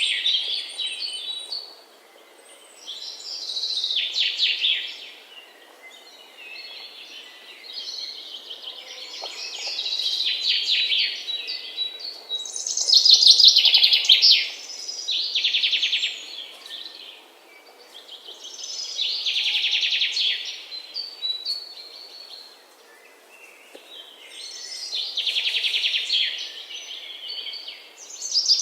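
Birds chirping in repeated bouts of rapid, high trills, each lasting a second or two, coming every few seconds.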